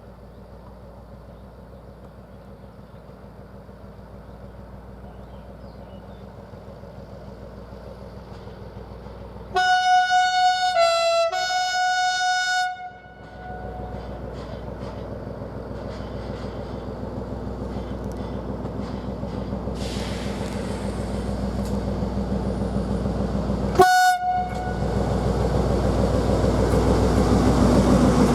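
Hungarian-built SN61 diesel railcar approaching, its engine rumble growing steadily louder. About ten seconds in it sounds its horn for about three seconds, dipping briefly to a lower note in the middle, and near the end it gives one short toot.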